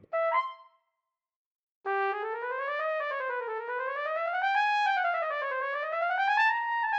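A trumpet plays a brief note, falls silent, then holds one long unbroken note that glides smoothly up and down in pitch in wave-like swells, tracing the outline of a row of hills.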